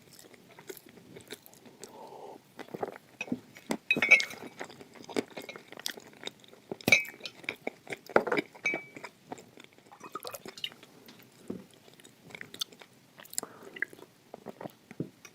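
A person chewing and crunching hard, dry red clay in the mouth: irregular crisp crunches, some sharper than others, with quieter chewing between them.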